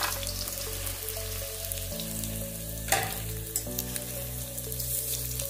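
Bottle gourd pieces sizzling as they start to fry in hot oil in a kadhai, with a sharp knock about three seconds in. Soft background music with held chords underneath.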